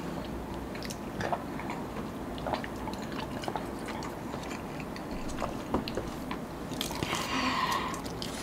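Close-up eating sounds: chewing and small crunches of fried chicken, scattered mouth clicks throughout, with a louder patch of noise about seven seconds in.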